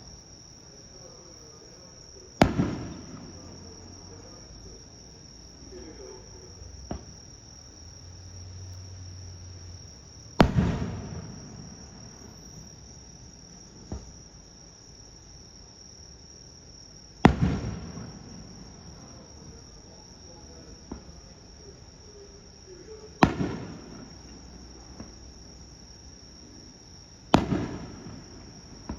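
Aerial firework shells bursting one at a time: five loud booms several seconds apart, each trailing off in a rolling echo, with fainter pops in between. Insects chirr in a steady high tone underneath.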